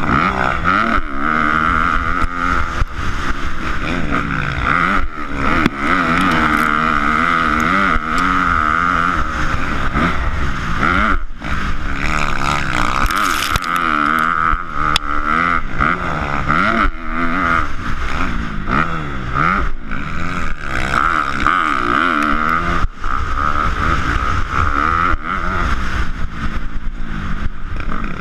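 Dirt bike engine being ridden hard, revs rising and falling over and over.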